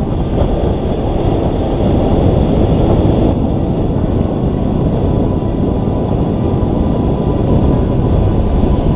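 Steady, heavy wind rush buffeting the camera microphone on a hang glider in flight.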